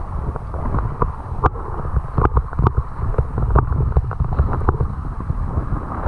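Wind buffeting the microphone, with a heavy rumble and many scattered sharp knocks and clicks.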